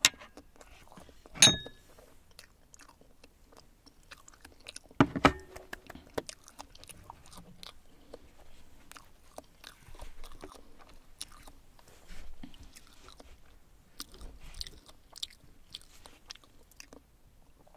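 Close-up mouth sounds of a person chewing a last bite of soft souffle omelette, with many small wet clicks. There are two louder knocks, about a second and a half in and about five seconds in; the first has a brief ring.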